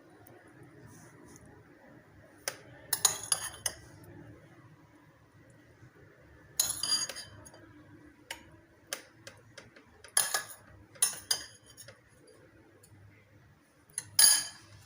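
Kitchen utensils and dishes clattering and clinking as a sandwich is put together: a string of short, separate knocks and clinks in small clusters, the loudest near the end.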